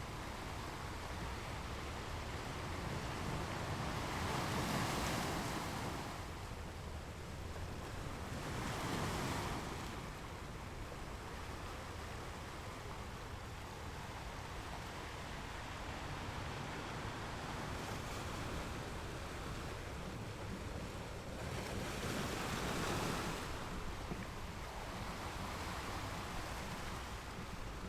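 Ocean surf on a beach: a continuous rush of water with three waves swelling louder and washing in, about five seconds in, about nine seconds in and near the end, over a steady low rumble.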